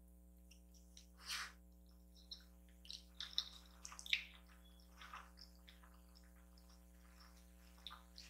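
Faint wet chewing and mouth sounds of someone eating kimchi noodles, a few short squishy smacks in a cluster through the middle, over a steady low electrical hum.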